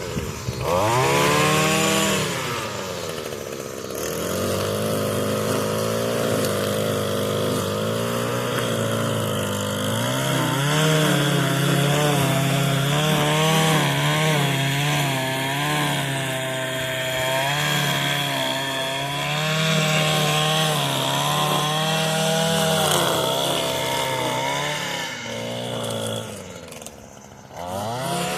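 Echo SRM 225 string trimmer's small two-stroke engine running, its pitch rising and falling as the throttle is worked. It dips sharply just before the start and again near the end.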